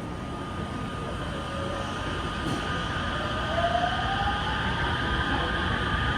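Electric train running by at a station platform, with a steady rumble and a motor whine that rises in pitch about three seconds in, as the train picks up speed.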